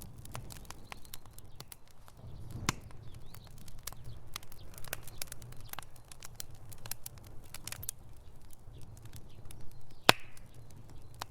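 Wood fire in a fireplace crackling: irregular sharp pops and snaps over a steady low rumble, with one louder pop about ten seconds in.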